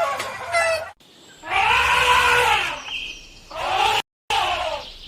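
Animal calls from clips spliced back to back: the tail of a rooster's crow cuts off about a second in, then two long arching calls from another animal, the first rising then falling in pitch. A short silence just after four seconds marks the start of the next clip.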